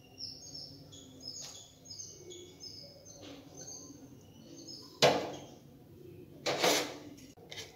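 Small birds chirping in quick, short high notes. A knock comes about five seconds in, and a louder scraping rustle follows a second and a half later.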